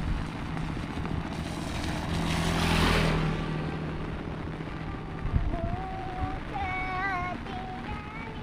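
A motor vehicle passes over the steady background noise, its engine hum and hiss swelling to a peak about three seconds in and then fading.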